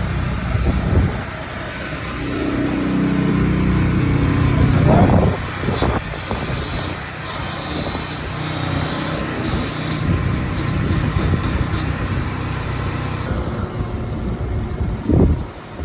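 A motor vehicle's engine running, its pitch climbing over the first five seconds, then dropping back and running on more evenly.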